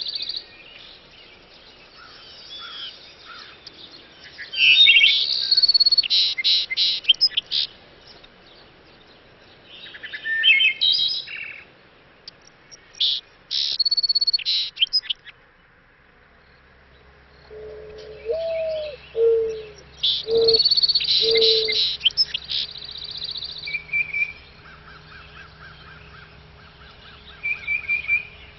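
Small songbirds chirping and singing in bursts of rapid high notes, with quieter gaps between phrases. About two-thirds of the way through, a few lower whistled notes come in.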